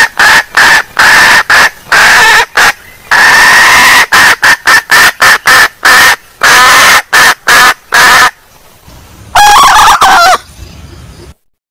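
Female junglefowl calling as a lure call: a rapid string of short, loud clucks with one longer call among them, then a pause and a final call before the sound cuts off.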